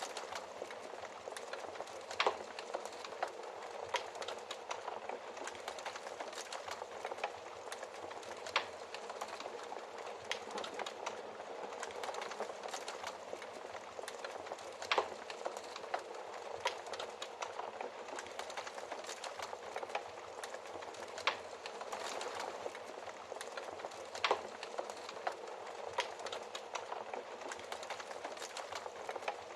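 Wood fire crackling steadily, with sharp pops at irregular moments, a few of them louder than the rest.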